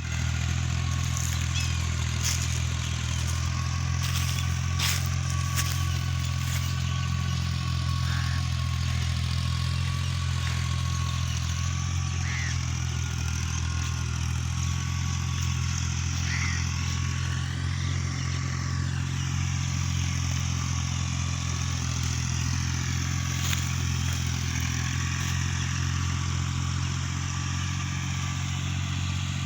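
Tractor engine running at a steady speed: a deep, even drone that holds unchanged, with a few light clicks now and then.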